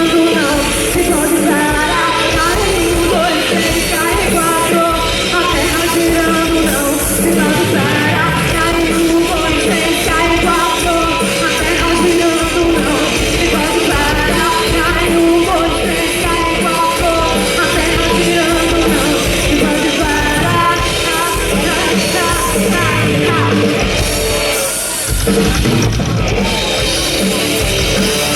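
A rock band playing live, loud and steady, with a singer's voice over the band.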